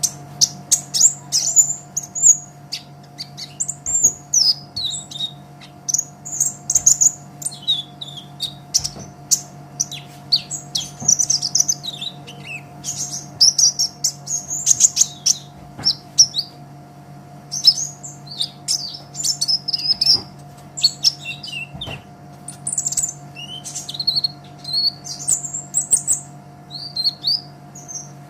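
Olive-backed sunbird (kolibri ninja) singing continuously: rapid, high-pitched twittering phrases of quick chirps and trills, with short gaps between bursts, over a steady low hum.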